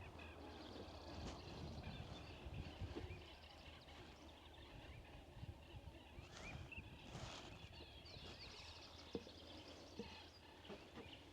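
Faint outdoor ambience: a steady low rumble with distant birds chirping, and a few soft knocks near the end.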